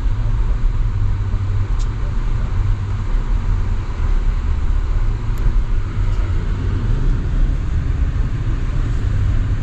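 Steady road and engine noise heard from inside a moving car: a deep, even rumble with a hiss of tyres on the road.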